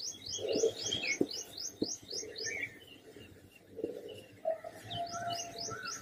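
Birds chirping: a quick series of high, evenly repeated chirps, about four a second, near the start and again near the end, with scattered other short bird calls in between.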